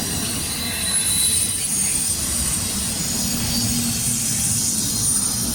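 Intermodal freight train rolling past at close range: a steady low rumble of wheels on rail with thin, high squealing tones from the wheels.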